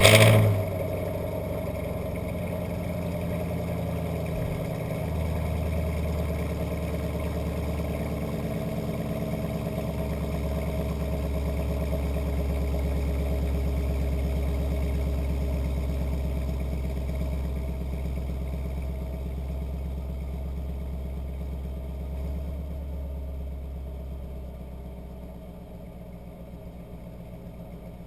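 2022 Chevrolet Camaro LT1's 6.2-litre V8 catching on a cold start with a loud flare, then running at a fast cold idle through the stock muffler. The idle note steps down about five seconds in and grows quieter near the end as the idle settles.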